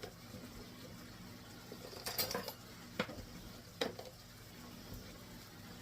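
Kitchen utensil clattering and knocking against a skillet of browning hamburger: a short burst of scraping clatter about two seconds in, then two sharp knocks about a second apart, over a faint steady hum.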